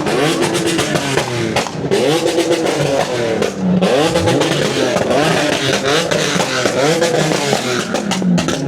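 Car engine revved over and over in quick blips, about one a second, each rising and falling in pitch, with sharp cracks throughout.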